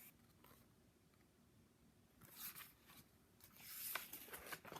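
Faint rustling of paper as a picture book's page is turned, in two short stretches from about two seconds in.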